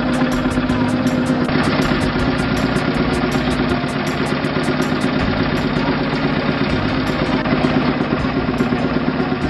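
Vintage tractor engine running steadily with an even, rapid firing beat.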